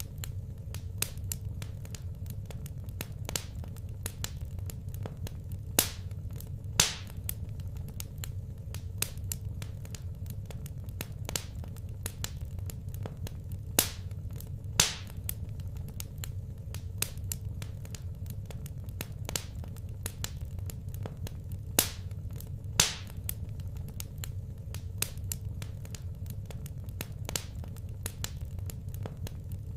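Wood fire crackling in a fireplace: a steady stream of small snaps with a handful of louder pops, over a steady low rumble.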